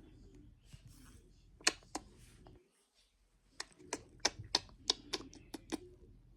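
A series of sharp clicks or taps: a couple of single ones, a short gap, then about a dozen in quick, uneven succession.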